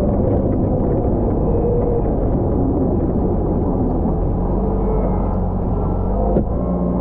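Volvo L110 wheel loader's diesel engine running steadily during snow plowing, with a single sharp knock near the end.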